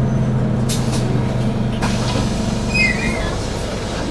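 On board a Scania N280UD bus: the Scania OC09 9.0-litre gas engine runs with a steady low hum that drops away about halfway through. Two short bursts of air hiss come about one and two seconds in, and a brief high beep sounds near three seconds in.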